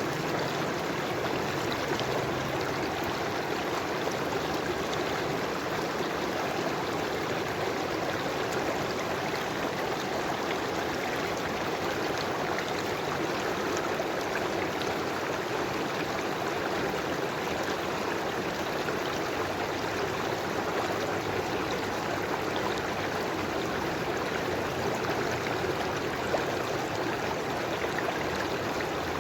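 River water flowing steadily over rocks: a continuous rushing with fine splashing and trickling detail, with no change in strength.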